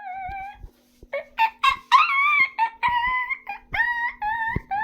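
A very high-pitched voice sings a short tune in a string of held, slightly wavering notes, over a faint steady hum.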